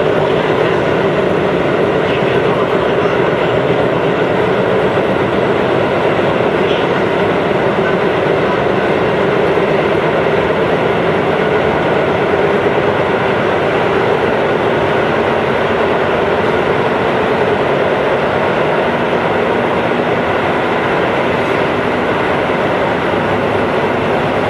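Chiba New Town Railway 9000-series electric train running along the line, heard from the cab as a steady rolling and running noise.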